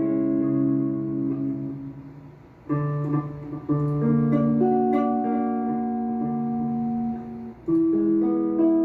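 Guitar playing three-note chords from the B melodic minor scale, each chord left to ring. A new chord comes about three seconds in and another a second later, with notes added one after another, then another chord near the end.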